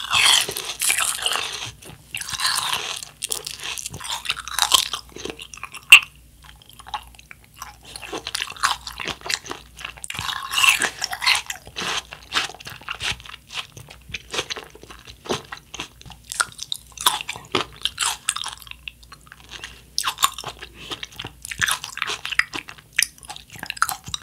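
Close-miked chewing of a mouthful of watermelon hwachae: watermelon cubes with blueberries, popping boba and ice-cream pieces. The chewing comes in several bursts with short quiet pauses between.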